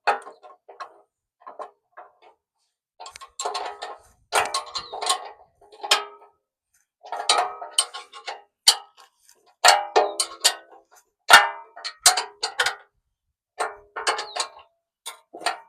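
Loose metal hardware and parts clinking and clanking as they are handled and fitted together: irregular sharp clinks, each with a short metallic ring, in uneven clusters.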